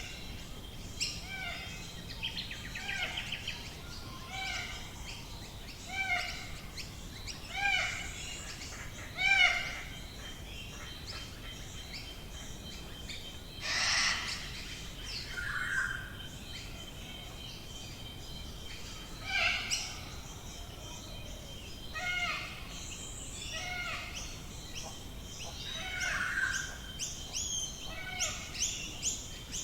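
Wild birds calling in the Australian bush. One bird repeats a short, rising-then-falling harmonic note about every second and a half. Other birds add louder, harsher calls now and then, over a faint steady high tone.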